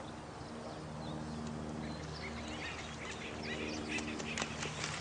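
Night nature soundscape: short chirping bird calls and sharp clicks, busier in the second half, over a steady low drone.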